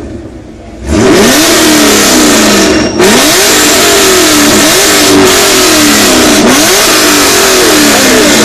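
Chevrolet Camaro's engine being revved hard again and again, its pitch climbing and dropping in a quick string of revs. Very loud, starting about a second in, with a brief break near the 3-second mark.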